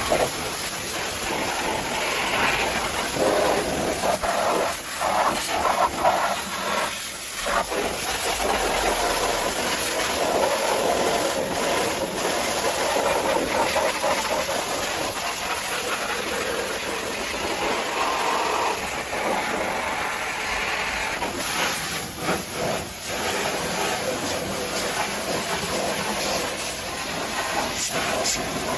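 Pressure washer jet spraying water against a vehicle: a steady, loud hiss of spray whose tone shifts now and then as the jet moves.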